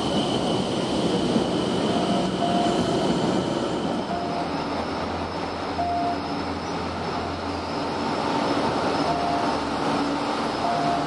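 Trains in a station: an electric DART train moving out with a steady high whine. About four seconds in this gives way to a diesel commuter train running in to the platform, with a low engine rumble and short high squeals.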